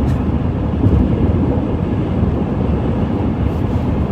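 Steady low road and engine rumble heard from inside a car's cabin while it cruises on a freeway at highway speed.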